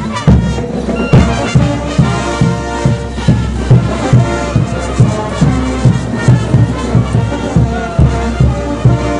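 Brass band of trumpets and trombones playing diablada dance music over a steady bass drum beat of about two strokes a second.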